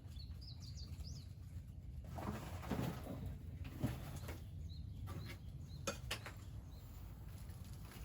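A small bird chirps a few quick high notes in the first second. It is followed by a stretch of rustling and a few sharp knocks or clicks.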